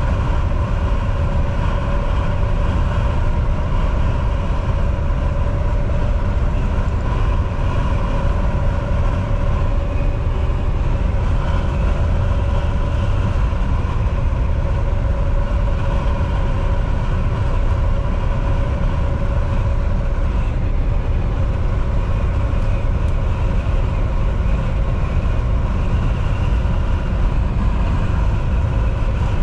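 Volvo VNL 760 semi truck driving at a steady pace: an even, continuous low engine and road rumble with a steady whine held at one pitch.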